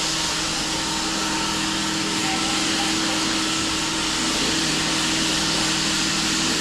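An electric machine running steadily: a constant whooshing hiss with a low steady hum, typical of an industrial vacuum or floor-preparation machine.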